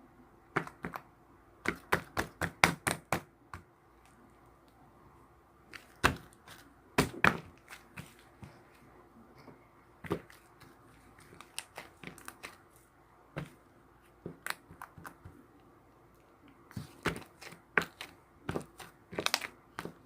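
Close-up handling sounds: irregular sharp clicks and taps on a hard surface, including a quick run of about six about two seconds in.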